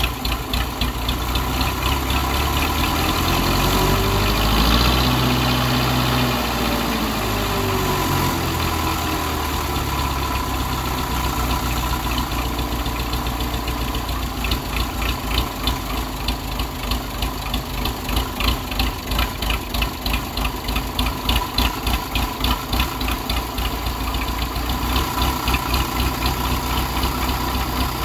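Case 350 crawler dozer's engine running just after a cold start. It revs up about three seconds in and eases back down by about nine seconds, then settles into an even, rhythmic idle.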